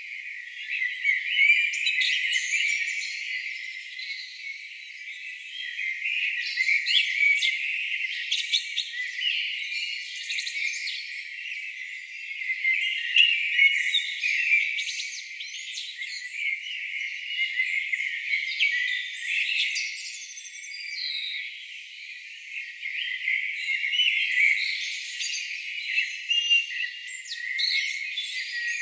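A dense chorus of many songbirds singing at once, overlapping chirps and trills with no pause. The sound is thin and high, with all its low end filtered away.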